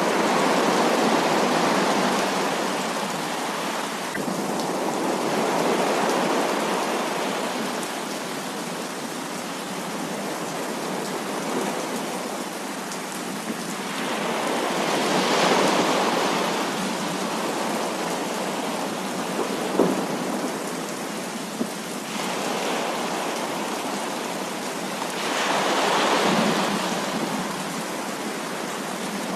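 Heavy rain falling steadily, with rolls of thunder that swell and fade four times, and a couple of sharp drip-like ticks in between.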